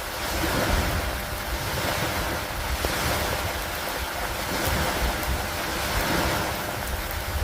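Steady rainfall with a low, wind-like rumble underneath, swelling and easing every couple of seconds.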